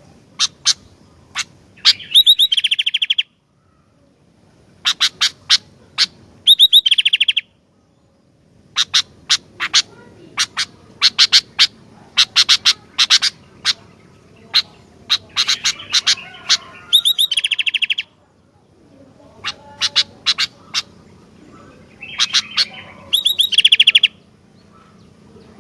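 Sooty-headed bulbul (kutilang) singing: runs of sharp separate chips, broken about four times by a short, fast rattling trill. A faint low hum lies underneath.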